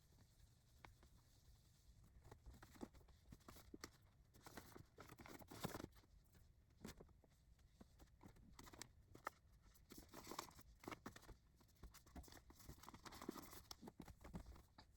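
Near silence broken by faint rustling and soft taps as yarn skeins are handled and stacked on a shelf, with one slightly louder rustle about six seconds in.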